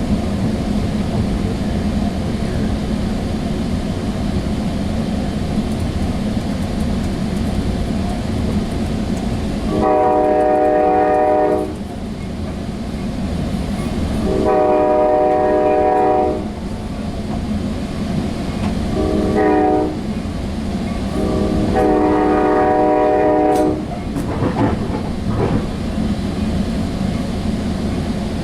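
Sounder commuter train rumbling along the rails, heard from inside a passenger car, while its horn sounds the grade-crossing signal: two long blasts, a short one, then a long one.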